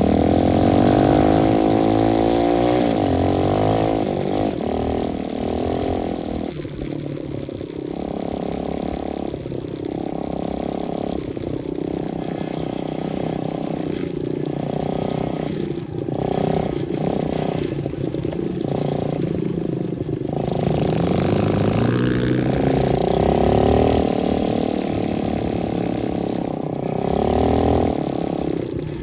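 125cc dirt bike engine revving hard under load while riding through soft sand, its pitch climbing and dropping again and again with the throttle.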